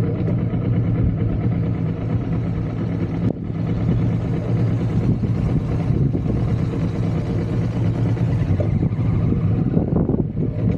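Kawasaki motorcycle engine running steadily at an even pace, with a brief dip about three seconds in. Wind buffeting on the microphone grows near the end.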